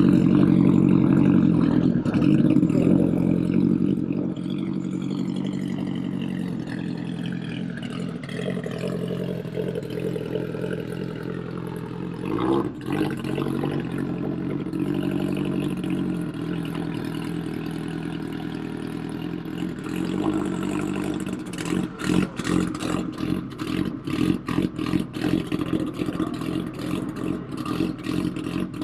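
Race-built Honda drag car engines running loud. The engine pitch slides steadily down over the first several seconds and there is a single knock near the middle. From about two-thirds of the way in, the engine gives off rapid, irregular sharp pops and cracks as a car sits at the starting line.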